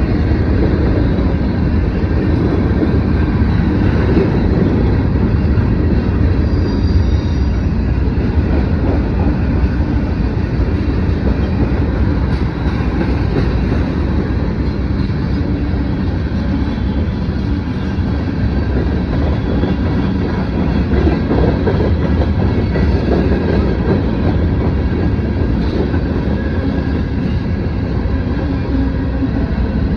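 Norfolk Southern mixed freight train's cars rolling past at close range, a steady loud rumble of steel wheels on rail that holds level throughout.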